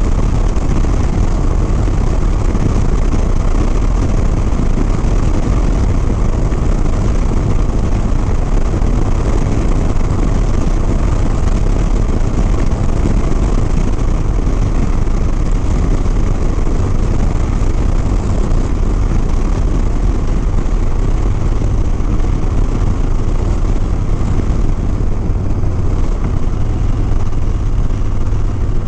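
Harley-Davidson Sport Glide's V-twin engine running steadily at cruising speed, mixed with wind rushing over the rider's microphone.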